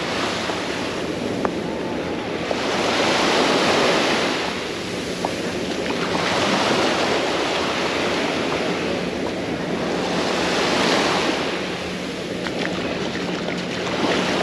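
Small Mediterranean waves breaking and washing up a sandy beach, the hiss of surf swelling and easing about every three to four seconds.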